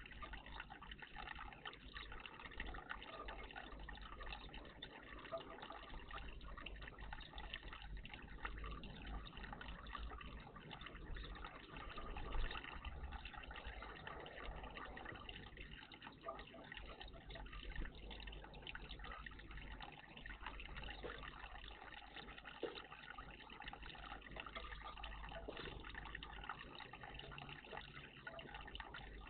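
Faint, steady trickling and splashing of water at a garden bird bath.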